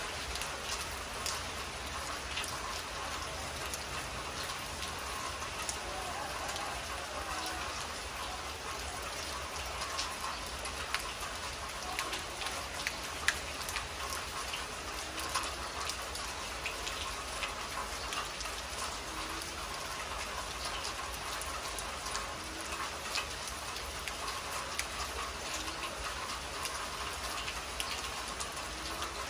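Heavy rain falling steadily on a concrete yard and foliage, a constant hiss with many drops tapping close by and a few sharper drip ticks now and then.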